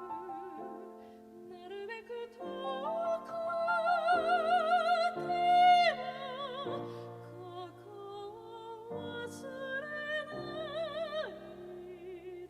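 Soprano singing a Japanese art song with piano accompaniment: long vibrato phrases over held piano chords, swelling to a loud high note about six seconds in, then a quieter phrase that rises again before it falls away near the end.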